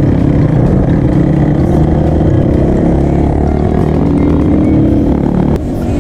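Crossfire dirt bike engine running under way, its pitch rising and falling with the throttle. The sound changes abruptly near the end.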